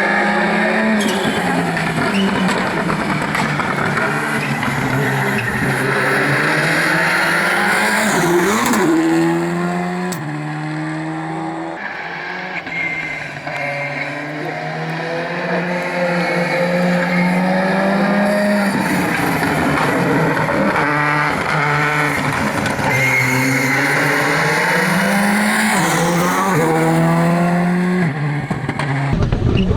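Rally car engines revving hard through the gears, pitch climbing and dropping back on each shift, as cars pass at speed: one sweeps by about nine seconds in and another near the end.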